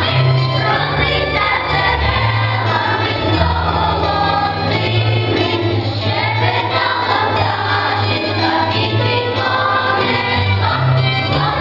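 Choral singing with musical accompaniment.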